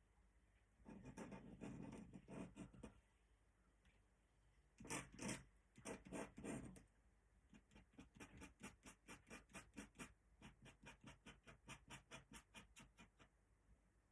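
Pen scratching on paper while drawing in Indian ink: a few scattered strokes, a louder cluster of strokes about halfway through, then a run of quick, even strokes at about three or four a second.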